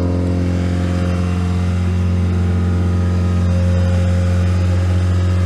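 1991 Honda Accord's 2.2-litre F22A1 four-cylinder engine idling steadily, an even low hum.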